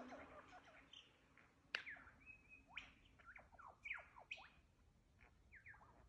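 Faint chorus of Australian bush birds calling: quick whistles and chirps, many sweeping steeply down in pitch, with one short held whistle just after two seconds in and a sharp, crack-like note just before it.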